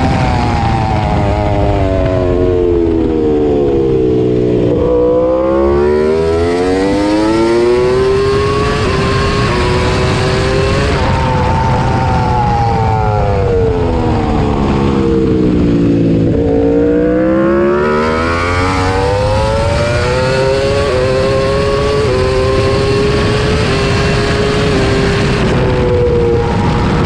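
Suzuki GSX-RR MotoGP racing motorcycle's inline-four engine at speed on track. The revs drop as it slows, then climb again through upshifts; this happens twice, with the second climb stepping up through several gear changes.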